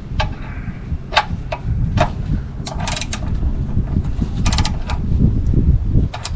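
3/8-inch ratchet clicking in short bursts of quick clicks, tightening a freshly reinstalled oil drain plug, over a steady low rumble.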